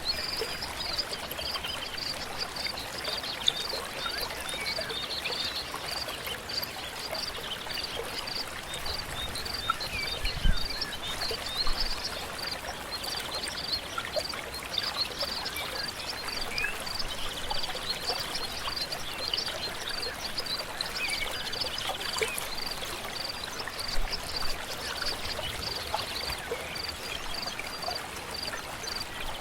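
Stream water flowing steadily, with birds calling over it: one repeats a high, short note about three times a second throughout, and now and then a buzzy trill sounds a little lower.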